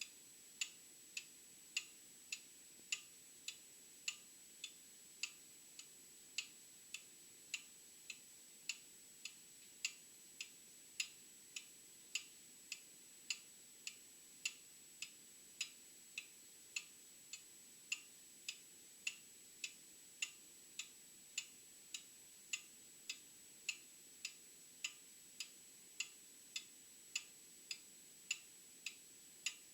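Old clock ticking with a steady, even tick-tock, a little under two ticks a second.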